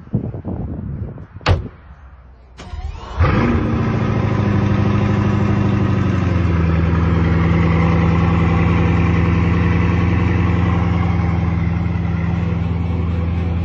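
A sharp thump, then a car engine starting about three seconds in: it flares up, then drops to a lower, steady idle.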